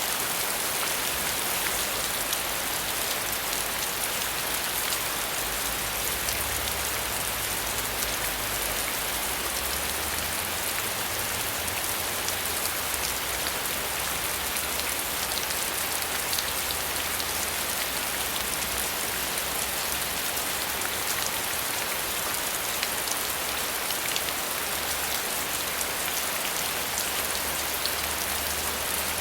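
Steady rain falling on a surface, an even hiss with fine drop ticks and a faint low rumble underneath.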